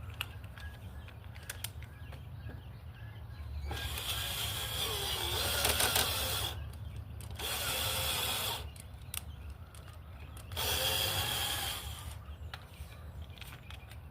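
Electric drill boring into hard, dry old wood in three runs: a long one about four seconds in, a short one, then another near the end, its motor pitch dipping as the bit bites. A steady low hum runs underneath.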